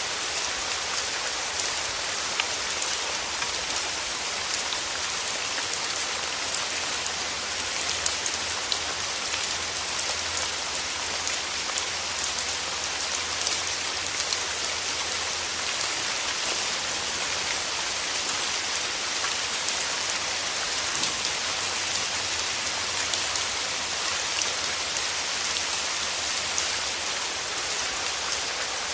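Steady rain falling in a forest: an even, dense hiss with many small drop ticks scattered through it.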